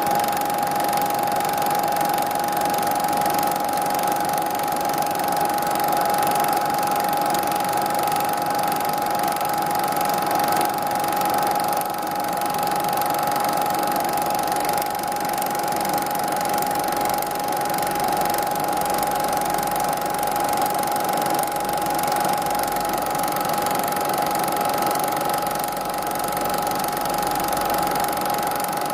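Steady machine-like running noise with a constant high hum over a hiss, unchanging in level.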